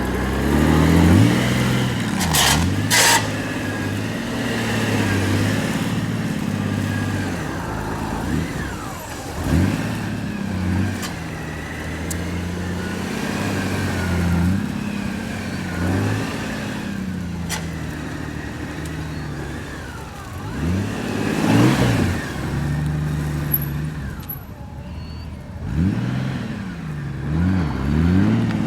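Honda GL1800 Gold Wing's flat-six engine during slow-speed turns, its pitch rising and falling again and again as the throttle is worked, with a couple of short clicks near the start.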